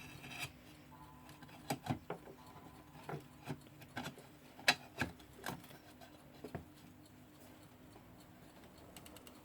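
Scattered light clicks and taps, about a dozen, irregularly spaced, from handling a Jakob Palmtag alarm clock during reassembly, over a faint steady low hum. The taps die away about two-thirds of the way through.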